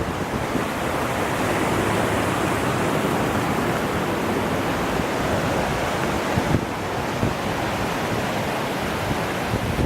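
Steady rush of a waterfall, an even wash of falling water with little change in level.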